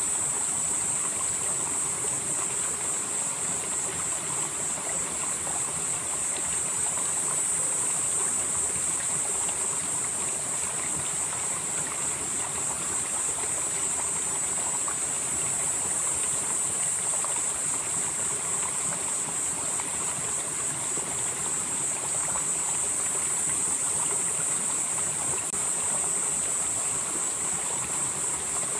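Mountain valley stream flowing steadily over rocks, a continuous even rush of water. A steady high-pitched shrill sits above it throughout.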